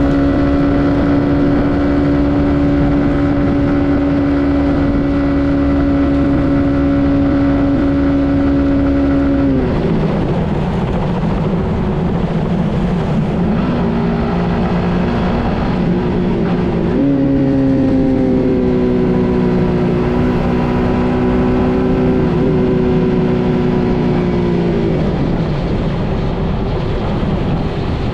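Suzuki GSX-S150's single-cylinder engine running under way, holding steady revs, then dropping about ten seconds in. It picks up again with a quick rise in pitch past the halfway point and falls off again near the end.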